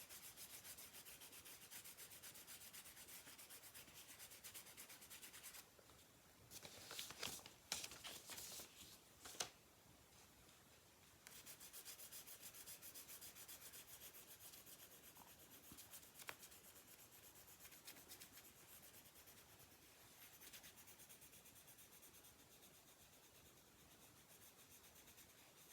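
Side of a watercolor pencil rubbed back and forth on paper, laying in a smooth background tone: faint, steady scratchy shading strokes, with a few louder strokes about a third of the way in.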